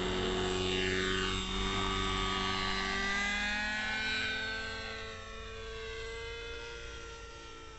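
Neo Caliber 50 RC helicopter's glow engine and rotors running, the engine pitch gliding up and down, then the sound dropping away over the last few seconds.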